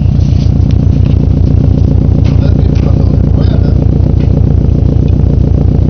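Subaru WRX STI's turbocharged flat-four boxer engine idling steadily through a Prodrive aftermarket exhaust, a loud, even, pulsing rumble.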